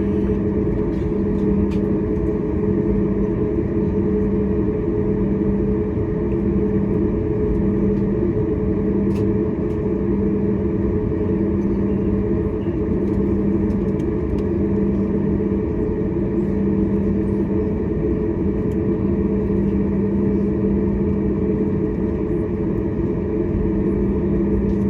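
Steady drone inside the cabin of a Boeing 737 MAX 8, a low rumble with a constant hum from its CFM LEAP-1B engines and the air rushing past. It holds an even level and pitch, with no spooling up or down.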